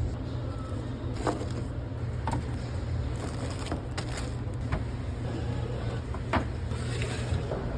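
A steady low machine hum with scattered light clicks and knocks.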